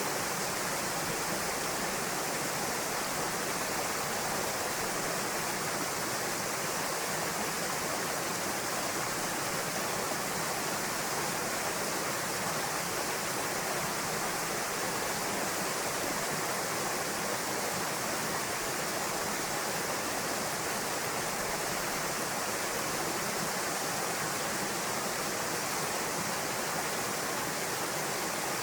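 Steady rush of a small waterfall spilling into a pool, an even hiss with no change throughout.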